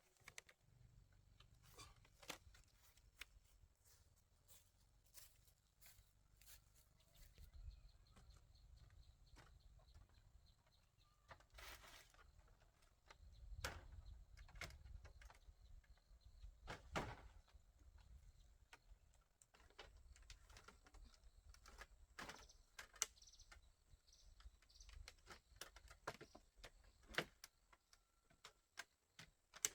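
Near silence with faint, scattered clicks and knocks at irregular times over a low rumble.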